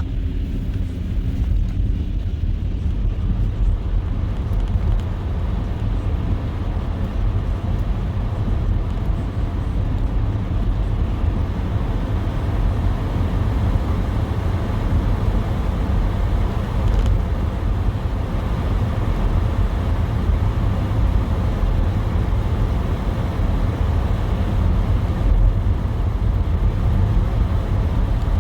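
Car driving on a snowy road: steady engine and tyre noise with a deep rumble underneath, unbroken throughout.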